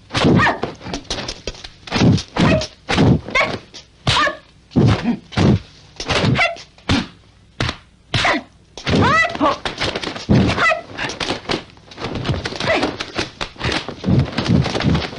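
Kung fu film fight sound effects: rapid, irregular punch and kick impact thwacks, several a second, with fighters' shouted cries and grunts, most clearly about nine seconds in.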